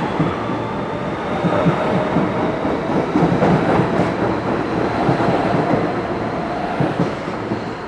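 Vintage MTA subway train running: a steady rumble with wheels clattering and the car rattling, easing off slightly near the end.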